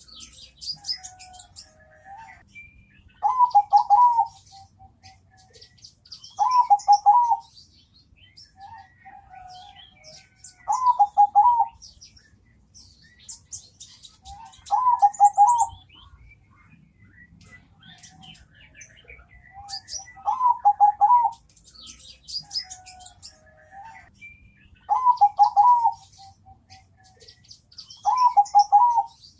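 Zebra dove (perkutut) singing its rolling, rhythmic coo, seven short phrases about four seconds apart. Faint high-pitched chirping runs in between.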